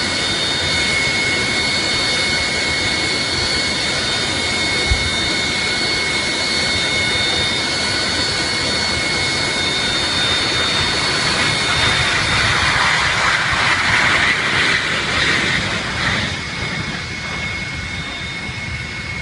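Jet engine running, a loud steady roar with a high, unchanging whine. It swells louder about two-thirds of the way through, then eases off.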